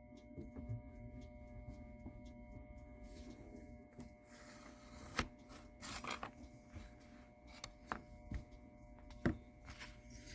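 Scattered light knocks and clicks of tools and parts being handled at a repair bench, over a steady electrical hum.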